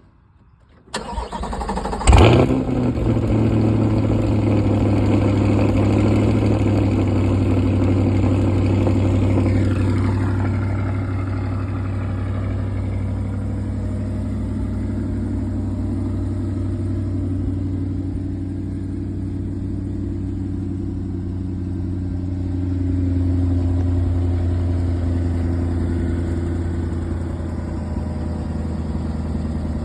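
2023 Corvette Z51's 6.2-litre V8 starting. The starter cranks briefly about a second in, and the engine catches with a loud flare. It holds a raised idle after start, which falls to a steady, slightly quieter idle over roughly ten to fifteen seconds.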